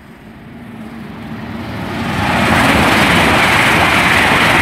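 Hitachi Class 800 train passing through the station at speed without stopping. Its rushing wheel and air noise builds over the first two seconds to a loud, steady level as the train runs past.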